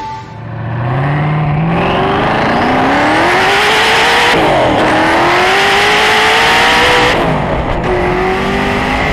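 Hennessey Venom GT's twin-turbo V8 at full throttle, accelerating from about 60 to over 110 mph. The engine note climbs steadily, falls back at an upshift about halfway through, climbs again, and drops at a second upshift near the end.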